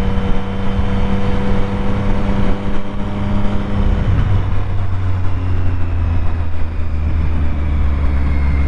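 Triumph Street Triple 765's inline three-cylinder engine running under way on the motorcycle. Its note holds steady, then drops sharply about halfway through and carries on steady at a lower pitch.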